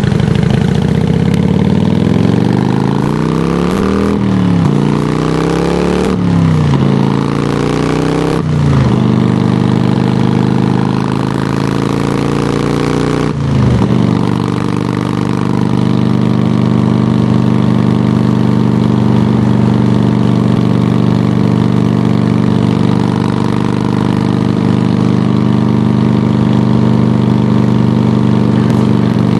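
Harley-Davidson touring bike's V-twin engine through Samson Silver Bullet mufflers, loud. The revs climb and drop sharply four times in the first fourteen seconds, like shifting up through the gears, then hold steady.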